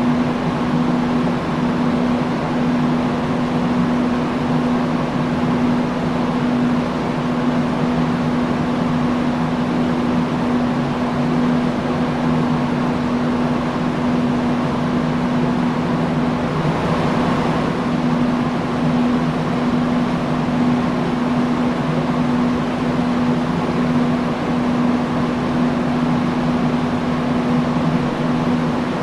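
Industrial fan running steadily: an even rush of air under a steady low hum, turning briefly a little brighter about halfway through.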